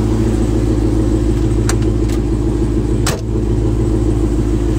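The engine of a 1972 Chevrolet Chevelle idling with a steady low drone. A short knock comes about three seconds in.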